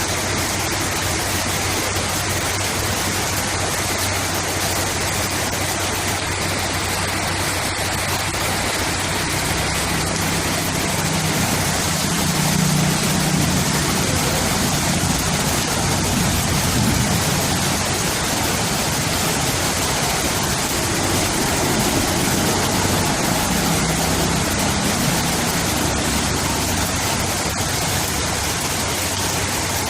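Heavy rain falling steadily, with the low hum of a vehicle engine running underneath that grows louder for a while in the middle.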